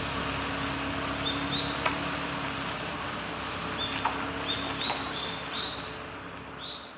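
Steady rush of river water, with a small bird chirping in short, repeated notes and a few sharp clicks; the sound fades down near the end.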